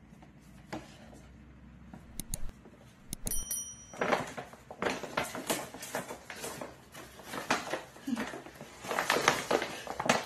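A paper shopping bag rustling and crinkling in irregular bursts as a small dog is lowered into it and the bag is handled by its ribbon handles.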